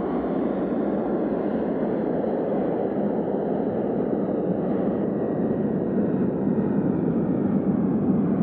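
Jet airliner engines running at takeoff power: a steady, dense engine noise that grows slightly louder near the end.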